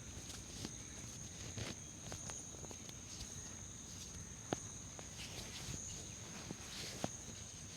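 Head massage sounds: hands rubbing over hair and scalp, with a few sharp taps or clicks, over a steady high-pitched whine.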